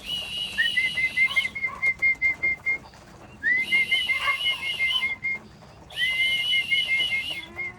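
Whistling to call pigeons in to the loft, in three bouts: each a warbling high note held over a lower note chopped into quick pulses.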